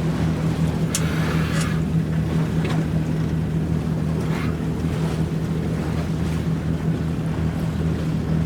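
Boat engine running at a steady speed, a constant low hum, with a few short hissing splashes of water, the clearest about a second in.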